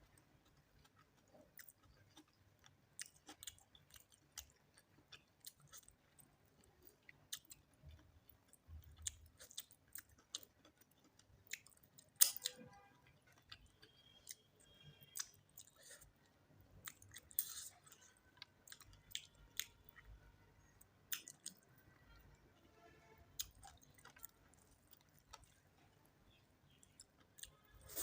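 Close-miked mouth sounds of a person chewing rice and chicken curry: irregular soft wet clicks and smacks, with a sharper click about twelve seconds in.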